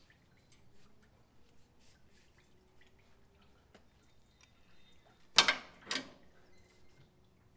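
Two loud, sharp knocks about half a second apart, from tools or parts being handled, over faint scattered ticks and taps.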